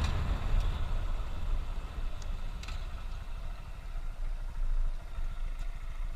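Motorcycle engine running steadily at a low cruising speed of about 25 mph, with a fast even pulsing rumble.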